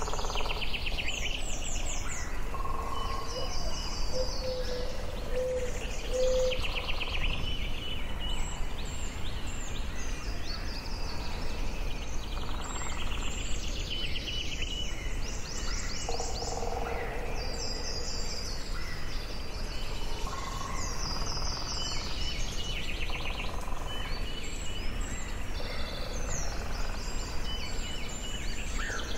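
Forest birdsong: several songbirds singing overlapping trills and repeated chirping phrases, over a steady low background rumble.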